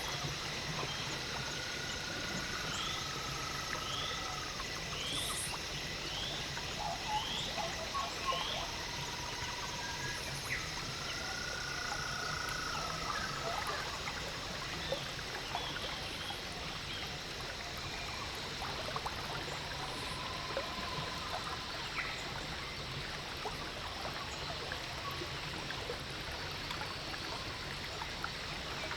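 Wild birds calling over a steady low rushing noise: a run of short rising chirps early on, and several long whistled notes, one of which steps down in pitch partway through.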